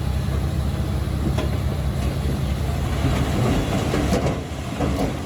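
Heavy diesel machinery running steadily, with metallic clanking and rattling that grows busier about three seconds in, along with a few sharp knocks.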